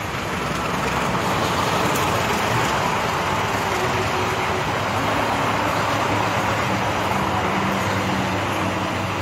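Passenger train rolling past at a level crossing: a steady rumble and hiss of wheels on rail, with road vehicles idling at the closed crossing underneath it.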